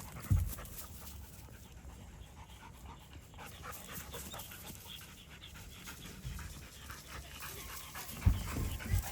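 A hunting hound panting rapidly, with a few dull low thumps just after the start and again near the end.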